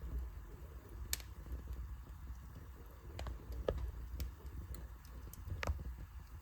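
Wood fire burning in a fireplace: a low steady rumble of the flames with irregular crackles and pops from the burning logs, a few sharper snaps scattered through.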